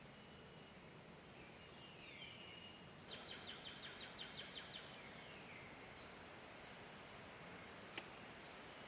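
Faint birdsong over a steady hiss: clear whistled notes, some sliding downward, and a quick trill of about ten notes about three seconds in. A single sharp click comes near the end.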